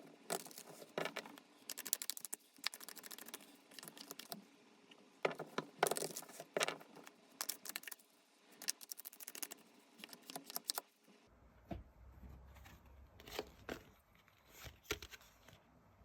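Tarot cards being shuffled and handled by hand: irregular runs of papery rustles and crisp snaps. A low steady hum joins them about two-thirds of the way through.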